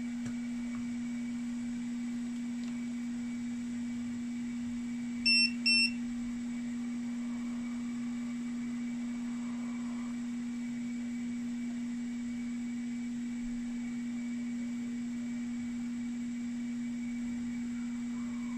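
Two short, high beeps from a multimeter in diode-test mode, about five seconds in, as the probes touch a component: the continuity beep that signals a near-short, marking the part as failed. A steady low hum sounds throughout.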